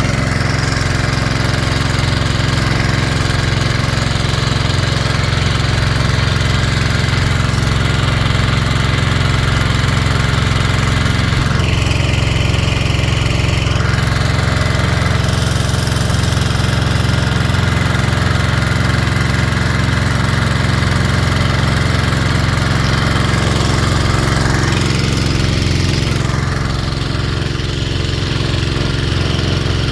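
Small gasoline engine of a gold-prospecting dredge running steadily at a constant speed, with a steady low hum.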